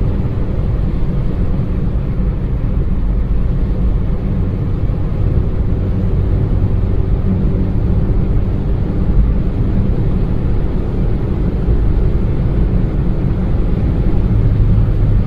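Steady low rumble of road and engine noise inside the cabin of a Maruti Suzuki Baleno hatchback while it is being driven, even and unchanging in pitch.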